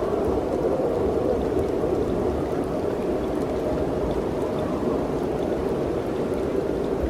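Wind blowing steadily through a mountain forest: a dense, even rushing with a low rumble underneath and a few faint ticks.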